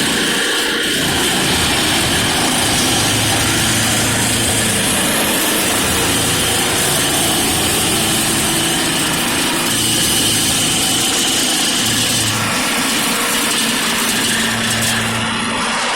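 A machine's engine running steadily under work.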